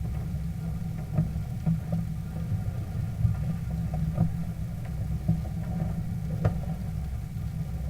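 Steady low mechanical hum, like an engine or motor running at idle, with scattered light clicks and taps over it.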